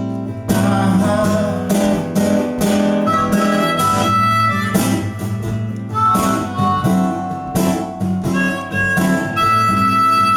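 Harmonica playing held notes over a strummed acoustic guitar: an instrumental break between sung lines of a live song.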